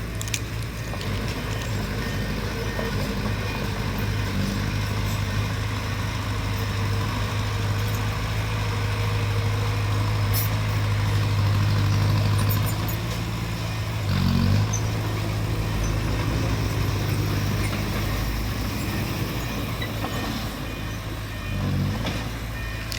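Bulldozer's diesel engine running steadily under load, a deep drone that swells in the middle, with two brief surges in engine speed, one about two-thirds of the way through and one near the end.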